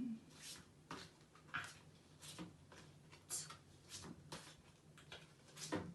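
A pack of sound cards being flicked through one card at a time: about eight short, sharp swishes at irregular intervals.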